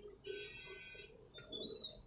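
Bird calls: one held high note, then a short rising chirp near the end.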